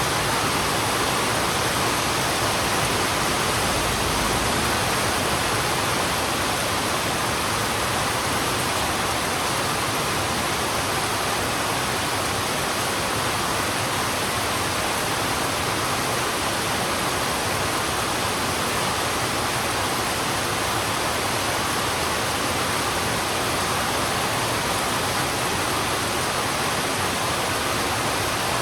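Heavy rain falling on a road: a steady, even hiss that does not let up.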